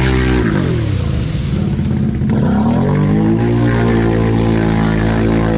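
ATV engine running at high revs, dropping off about half a second in and climbing back up by about three seconds, then holding high again.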